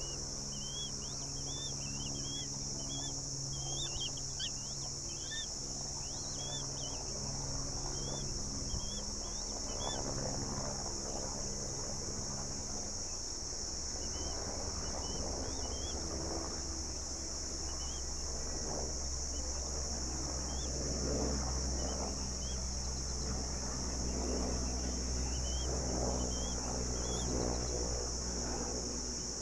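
A steady, high insect chorus with bursts of short, high squeaky bird calls, many in the first few seconds and scattered later, over a low hum.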